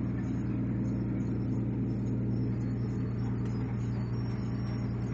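Steady low drone of a squid-fishing vessel's engine or onboard machinery running at a constant speed.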